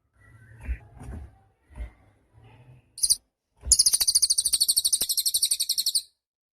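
A cililin bird sings a short high note, then a fast, very high, rapidly repeated trill lasting about two seconds. Soft low knocks and rustling come before the song.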